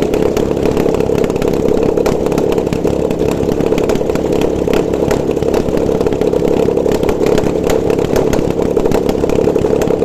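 Nissan VQ20DE 2.0-litre V6 running steadily on an engine test stand, with a fast, even ticking over the hum of the running engine.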